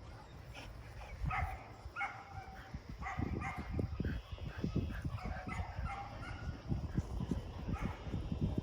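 Dogs play-fighting: a few short yips and whines in the first few seconds, then a dense run of low thumps and scuffles from about three seconds in.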